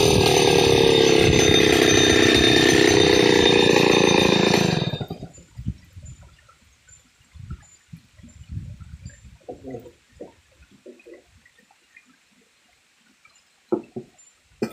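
Chainsaw engine running at speed, then cutting off about five seconds in. Scattered faint knocks follow, with one sharper click near the end.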